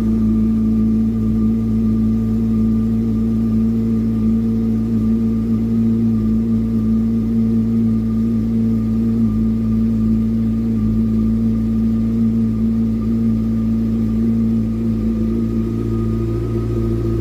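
Yamaha YZF-R6 (2004) inline-four engine with an Akrapovic exhaust, running at a steady engine speed with no revving.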